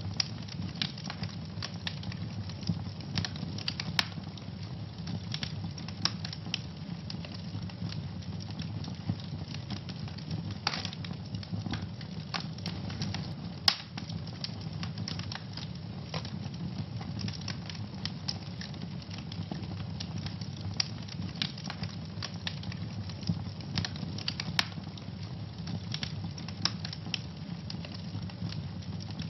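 Wood fire crackling in a fireplace: frequent irregular sharp pops and snaps over a steady low rumble of burning, with a few louder pops.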